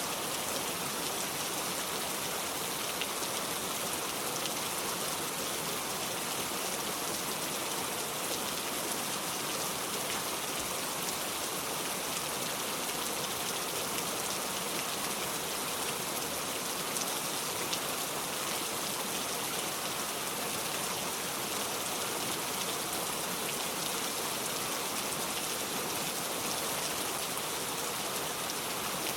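Steady rain falling, an even hiss of drops on a surface with scattered faint individual drop ticks.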